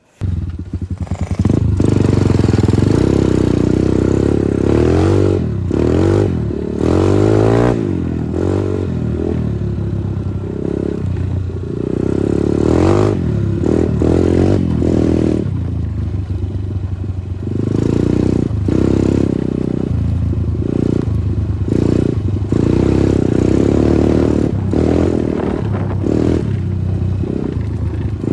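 Progasi Smart Max 150 motorcycle's single-cylinder engine running under throttle, repeatedly revving up and dropping back, with short knocks and rattles throughout.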